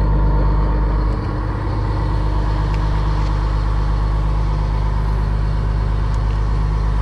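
Whale-watching boat's engine running steadily: a low hum made of several evenly spaced tones, dropping slightly in loudness about a second in.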